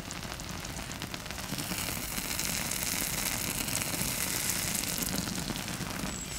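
Egg, tomato and melted-cheese mixture sizzling in an oiled frying pan, a dense fine crackle like rain on a surface. The crackle grows louder about a second and a half in.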